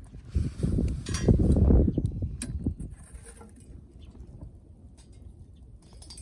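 Wind buffeting the microphone in heavy gusts, easing off after about two seconds, with scattered light clicks and clinks.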